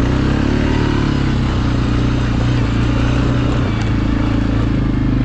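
ATV engine running steadily while riding, with wind and rattle mixed in.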